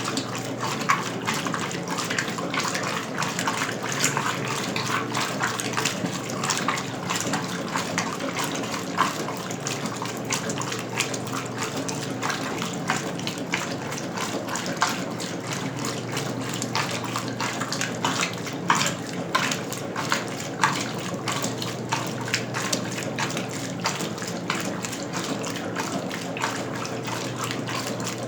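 1977 Westinghouse Lavínia washing machine running with water in the tub: a steady rush and splash of water over a low motor hum, with frequent small splashes.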